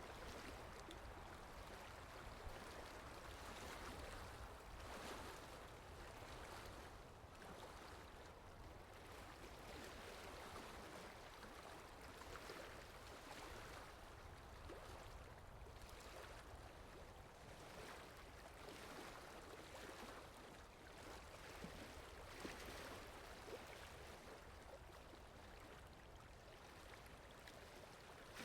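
Faint, steady rushing water ambience that swells and eases slowly, with no clear music heard.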